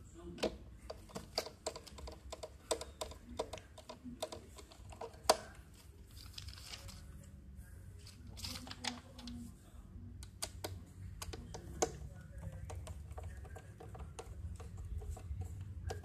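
Irregular light clicks and taps of small metal and plastic parts, several a second at first and then sparser, with a couple of brief scraping sounds: nuts being fitted and tightened on the terminals of the UPS's replacement batteries.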